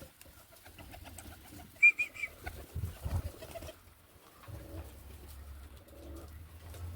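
Roller pigeons cooing softly, with a brief high three-note chirp about two seconds in.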